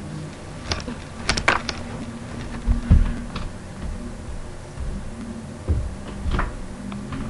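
Irregular clicks and knocks with a few dull thumps, the loudest thump about three seconds in.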